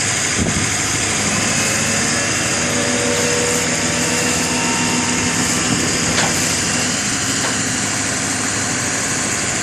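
A vehicle engine idling steadily under a constant hiss, with a couple of faint clicks.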